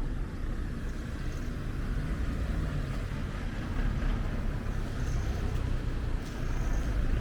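Steady low rumble of outdoor street ambience, with a faint hiss above it.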